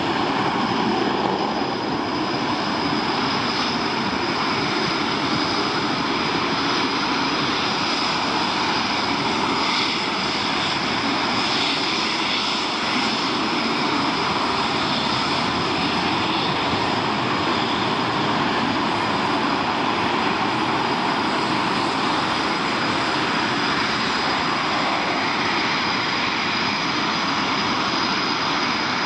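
Military jet aircraft engines running loud and steady through a mass launch, with a constant high turbine whine over the rumble.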